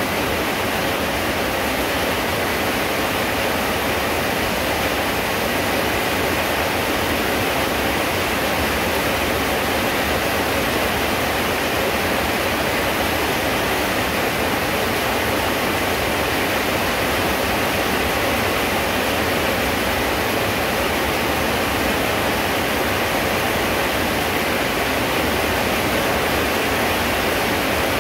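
Rain falling steadily: a loud, even rush of noise with no breaks.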